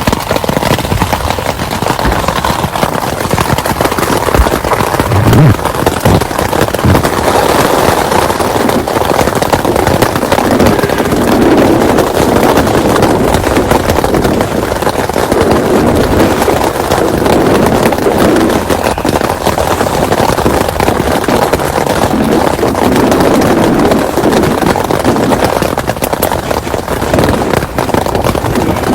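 Heavy rain falling steadily on a tent, a loud, dense rattle of drops.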